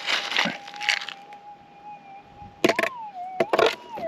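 Minelab GPX 6000 metal detector's steady threshold tone, its pitch wavering near the end as the target in the scoop is passed over the coil. Dirt rattles and scrapes in the scoop in two spells, the first right at the start and the second near the end, with a few sharp clicks.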